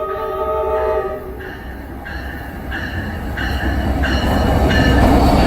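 NJ Transit train horn sounding a chord for about a second and a half, then the train approaching with a rising rumble. A high ringing tone repeats about every two-thirds of a second.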